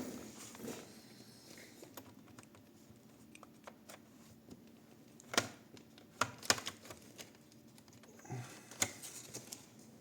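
Light plastic clicking and scraping as a plastic card is worked along the seam of a Thunderobot 911 Air D laptop's case, with a few sharper snaps as its plastic clips pop loose. The loudest come about five and a half and six and a half seconds in.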